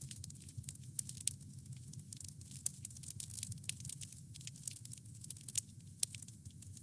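Wood campfire crackling: many small sharp pops and snaps, irregular and several a second, over a low steady rumble of burning.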